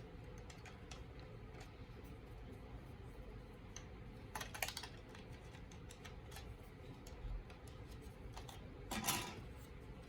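Plastic parts of a snap-together model kit being handled and pressed together: scattered small clicks and taps, with two louder short clattering bursts, about four and a half and nine seconds in.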